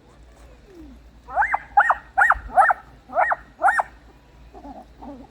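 Dachshund yipping: six quick, high-pitched yaps in a row, each rising and falling in pitch.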